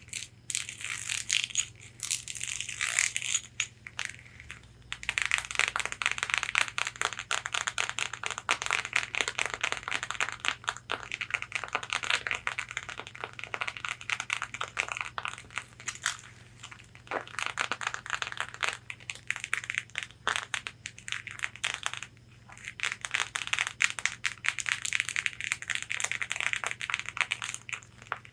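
Long fingernails tapping and scratching rapidly on a corset's fabric bodice, a dense run of clicks and scratchy rustles with a few brief pauses.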